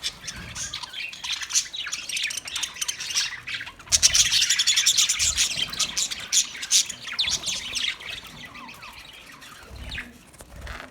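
Budgerigar chirping and chattering in quick, dense warbling notes, loudest in the middle and thinning out near the end.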